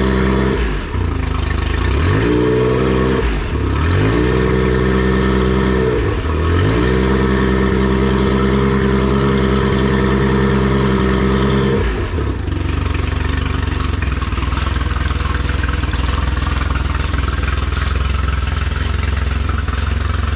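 Honda 50 hp three-cylinder fuel-injected four-stroke outboard motor running at raised revs, its engine speed dipping sharply and climbing back three times, then dropping to a steady idle about twelve seconds in.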